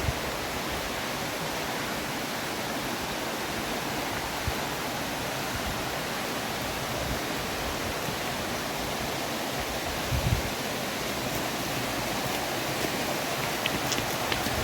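Steady rush of river water. A brief low thump comes about ten seconds in, and a few small clicks come near the end.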